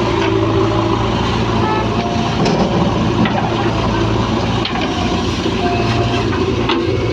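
Heavy diesel machinery engine running steadily, with a couple of brief higher tones over it, about two and a half and five and a half seconds in.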